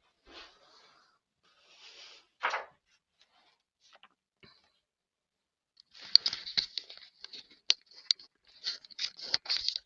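Something crinkly being handled up close, rustling and crackling in short irregular bursts with sharp clicks. It is sparse at first and gets busier and louder over the last four seconds.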